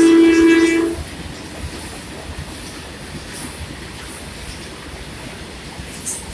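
Indian Railways locomotive horn holding one steady note that cuts off about a second in. It is followed by the steady running noise of the train on the rails.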